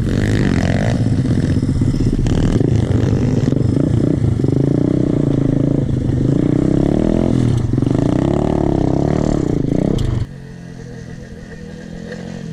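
Pit bike engine revving up and down repeatedly, its pitch rising and falling. It cuts off suddenly about ten seconds in, leaving a much quieter background.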